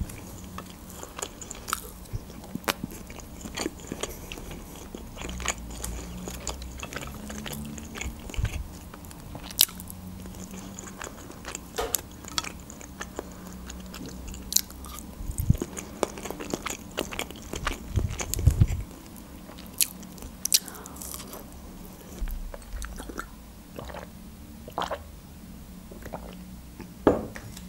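Close-miked eating: chewing and biting of seasoned chicken breast strips and boiled egg, with many short sharp mouth clicks and a few low thumps around the middle.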